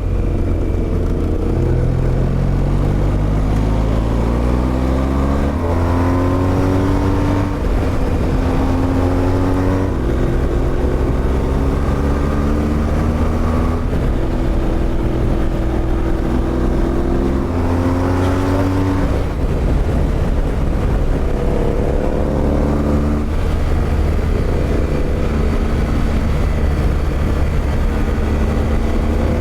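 Motorcycle engine from the riding bike, heard over a steady rush of wind and road noise, its note climbing under acceleration and dropping at each gear change, over and over.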